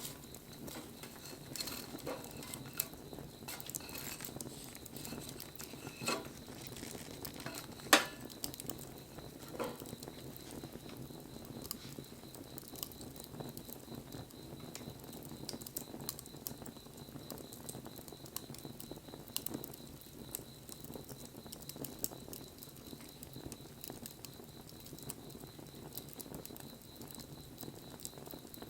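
Wood fire crackling, with a steady patter of small ticks and a few louder pops, the loudest about eight seconds in.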